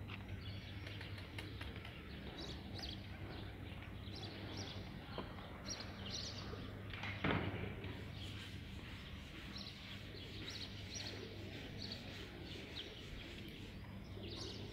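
Birds chirping, with many short high calls scattered throughout, over a faint steady low hum. A short louder noise comes about seven seconds in.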